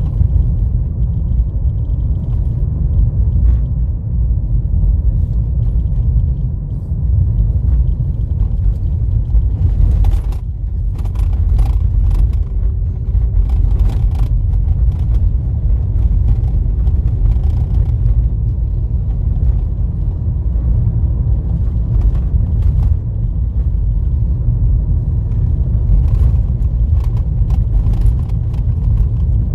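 Car driving on a rough dirt road: a steady low rumble of tyres and road noise, with clusters of short clatters and knocks over the uneven surface, about ten seconds in and again near the end.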